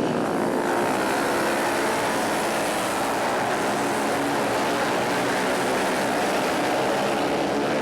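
Several flat-track racing motorcycles running hard together in a race, their engine notes overlapping in a steady, dense drone.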